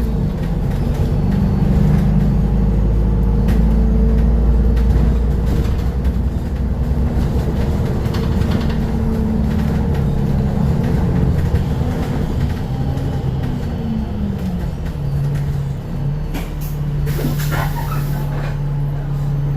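Bus engine running, heard from inside the cabin, its pitch climbing and then falling away as it changes speed before settling to a steady hum. A short hiss of air comes near the end.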